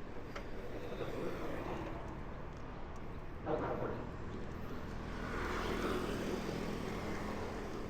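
Street traffic heard from a moving bike: motor vehicles passing close by. A louder one comes in suddenly about halfway through, and a steady engine hum carries on after it.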